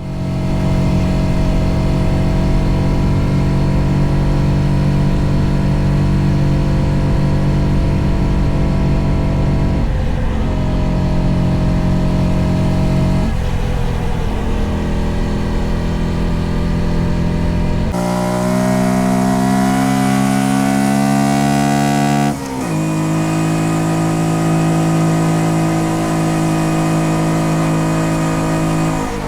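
Honda Dax 125's single-cylinder four-stroke engine running under way at steady revs, dipping briefly twice. Later it revs up in a long rising pitch, then falls suddenly and settles again.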